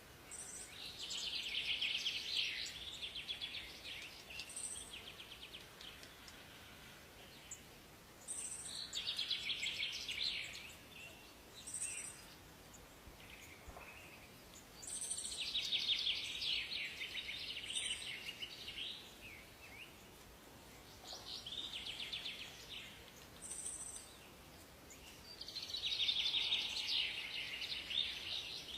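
A songbird repeating a fast-noted warbling phrase, five times about six seconds apart, each phrase two to four seconds long with a short high note around it, over a faint steady hiss of forest ambience.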